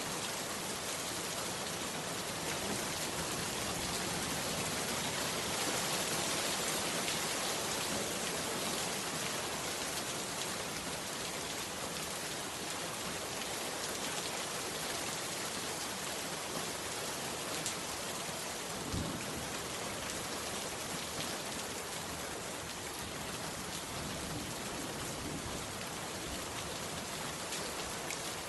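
Heavy rain falling steadily, an even hiss of many drops. A single dull low thump comes about two-thirds of the way through.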